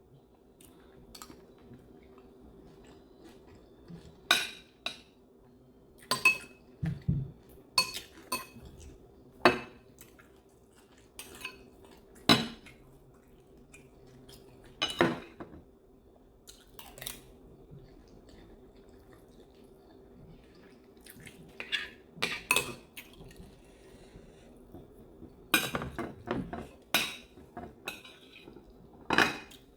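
Cutlery clinking and scraping against a dish during a meal: short sharp clinks every second or few, some in quick clusters, over a faint steady hum.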